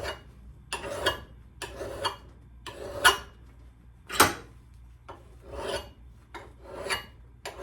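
Hand file rasping across the steel of an old axe head to sharpen it, in about eight separate strokes roughly a second apart.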